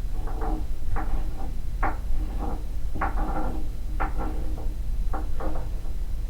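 Floor impact noise: irregular knocks and thuds, about two a second and sometimes in quick pairs, over a steady low hum.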